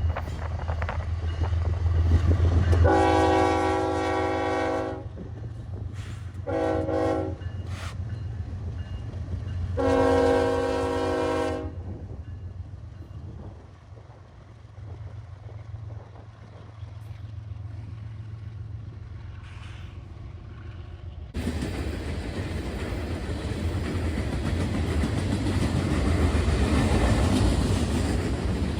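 Diesel locomotive's air horn sounding three blasts, long, short, long, over the low rumble of the engines. About 21 seconds in, a steady rush of wheels on rail starts suddenly as the train comes by.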